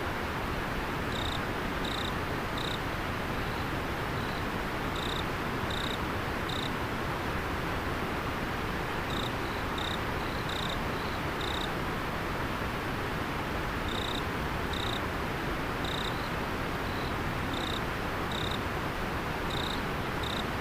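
River water flowing steadily, with a single insect, cricket-like, calling over it in short high-pitched chirps that come in pairs and threes every few seconds.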